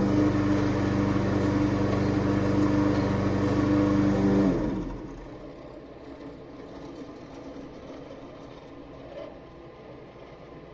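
A small gasoline engine from yard equipment runs steadily, then is shut off about four and a half seconds in. Its pitch drops briefly as it stops, leaving a much quieter background.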